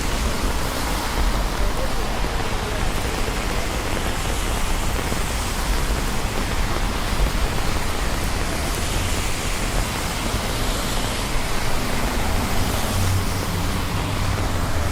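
Steady rain hiss over a low rumble of city traffic, the rumble swelling over the last few seconds.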